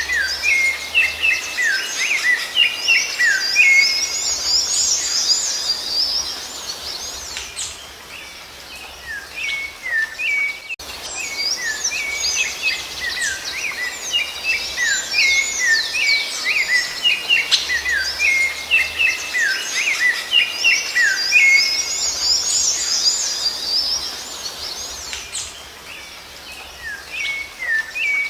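Songbird singing a fast, continuous run of short chirps and sliding whistled notes, busiest in two long passages that each thin out before starting again, with a sudden break about eleven seconds in.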